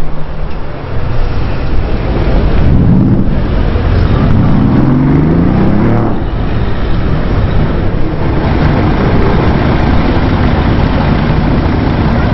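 Loud car engines accelerating, their pitch rising twice, briefly about three seconds in and again for a couple of seconds after four seconds, over steady road noise.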